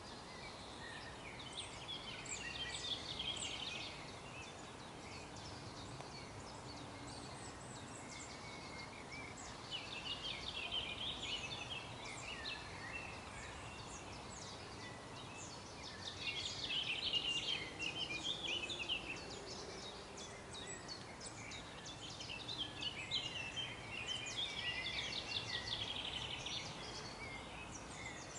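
Songbird song in four bursts of rapid, high chirping and twittering, each a few seconds long, over a steady faint background noise.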